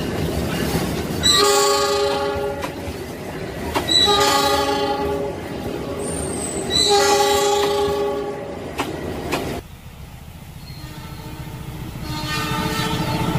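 Passenger train passing close, with wheels clattering over the rails. A locomotive air horn sounds three chord blasts, each about a second and a half long, a couple of seconds apart. After a drop in level, a fainter horn chord from an approaching diesel locomotive comes near the end.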